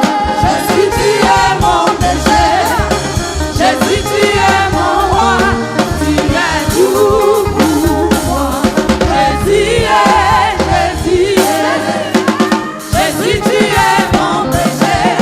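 Live gospel music: a choir singing over bass and a drum kit.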